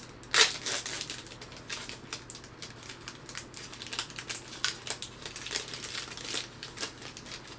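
A trading card pack wrapper crinkling and crackling as it is torn open and handled, in irregular sharp crackles with one louder crackle about half a second in.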